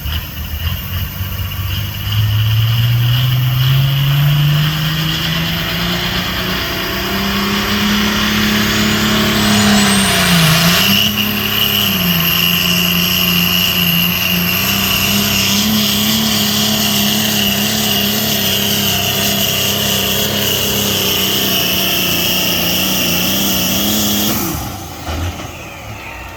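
Competition tractor-pull puller's engine revving up over several seconds, then held at high revs under load through the pull, with two brief dips about ten seconds in and a high whine rising above it. The engine note drops away near the end as the run finishes.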